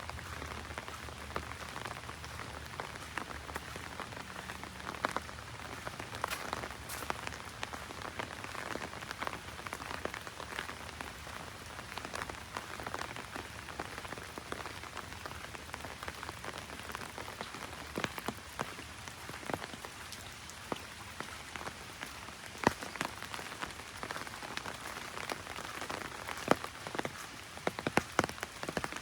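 Heavy rain falling on an umbrella: a dense, steady patter of drops with scattered louder single drops, which come more often near the end.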